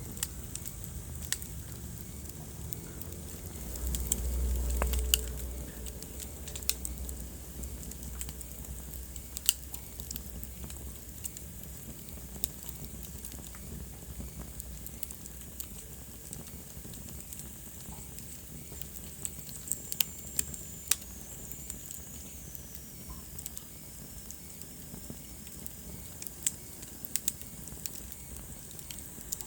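Wood fire in a fireplace crackling, with sharp pops at irregular intervals over a faint steady hiss. A low rumble swells for a couple of seconds about four seconds in, and a faint high whistle falls in pitch about twenty seconds in.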